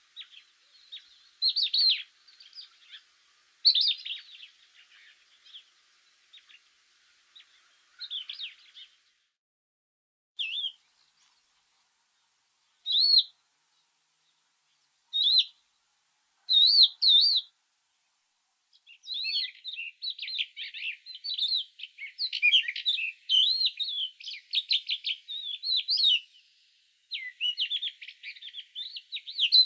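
Songbirds chirping and singing: scattered short calls at first, then a busy stretch of rapid, overlapping chirps from about two-thirds of the way through.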